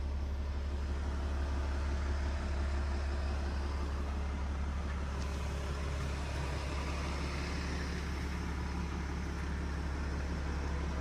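A Ram 3500's 6.7 L Cummins inline-six turbo diesel idling, heard from inside the cab as a steady low hum.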